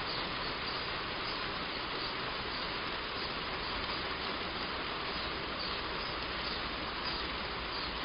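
Heavy rain drumming steadily on a roof: an even, unbroken hiss.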